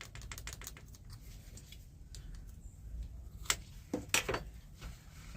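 Light clicks and taps of small metal parts being handled while working on a loader's joystick control cable linkage, with a few sharper clicks about three and a half to four seconds in.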